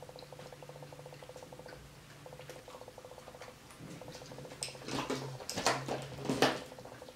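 Close-miked chewing of a sausage dog in a bun: soft, wet mouth clicks. A low buzzing hum comes and goes underneath, and a few louder clicks and rustles fall after the middle.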